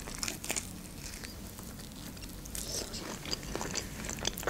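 Chewing a bite of crispy breaded fried chicken wing: scattered soft wet mouth clicks and light crunches, picked up close to the mouth.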